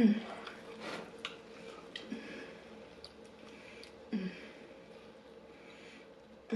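Close-up chewing and mouth sounds of someone eating a chicken thigh with its skin, with small wet clicks. Short low hummed 'mm' sounds come at the start, about two seconds in, about four seconds in, and at the end.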